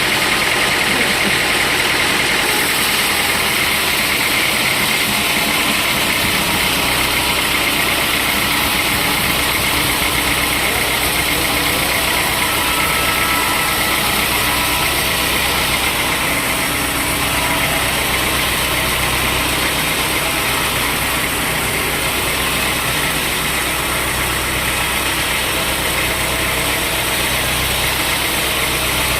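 Sawmill machinery running steadily: a constant loud mechanical noise with a low engine-like drone underneath.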